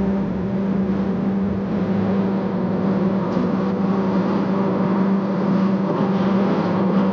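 Steady engine drone: a constant low hum with a noisy rush over it, unchanging throughout.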